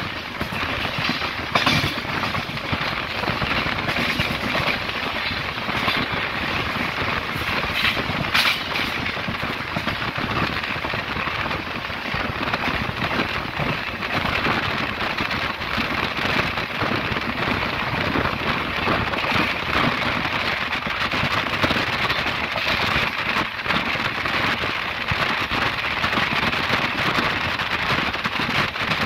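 Passenger express train running at speed, heard from aboard the coach: a steady rushing hiss of wheels on rails and passing air, with a few sharp clacks of the wheels over rail joints in the first ten seconds or so.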